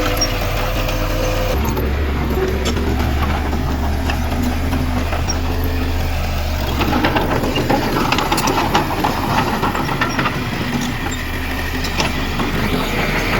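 Diesel engine of heavy earthmoving machinery running steadily, with its pitch shifting about a second and a half in. Clanking and knocking joins in from about the middle to near the end.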